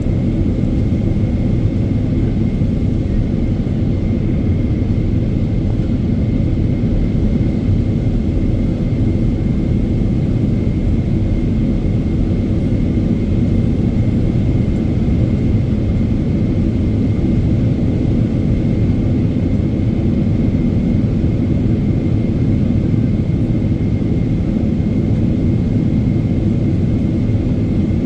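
Steady cabin roar inside a Boeing 777-300ER in flight: airflow and engine noise, unchanging throughout, with a faint steady high whine above it.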